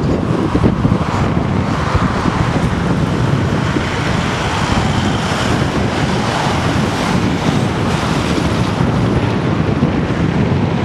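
Wind buffeting the camera microphone: a loud, steady rushing rumble, heaviest in the low end.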